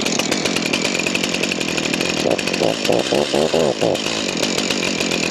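Chainsaw running just after starting on fresh recreational gas, idling with a few quick revs that rise and fall in pitch in the middle.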